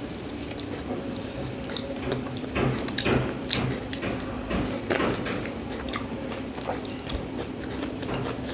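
A person chewing and biting food close to the microphone, with irregular mouth clicks and smacks that are busiest in the middle, over a faint steady hum.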